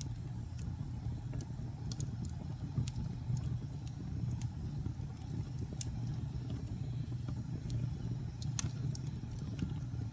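Wood fire burning in a fireplace: a steady low rumble of the flames with scattered sharp crackles and pops, one louder pop late on.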